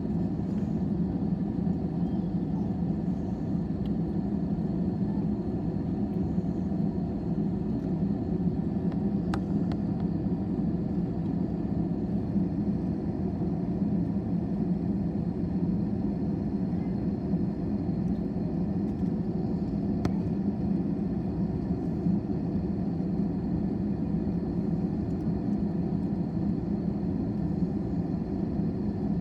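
Steady rumble of an airliner's jet engines and airflow heard from inside the passenger cabin, even and unchanging, with a faint thin high whine above it.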